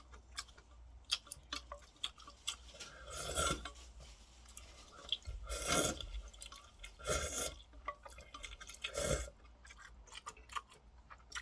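A person eating instant ramen close to the microphone: chewing and small clicks, with four short louder mouth sounds spread through the stretch.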